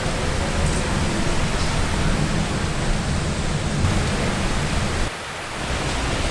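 Heavy rain pouring in strong wind: a steady, dense rushing with an uneven low rumble. It briefly goes quieter about five seconds in, then comes back.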